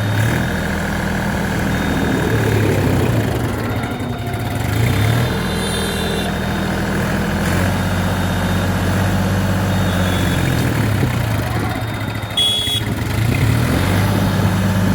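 New Holland 4710 tractor's diesel engine running at low speed, its pitch dipping and rising slightly a few times, with a brief metallic clatter near the end.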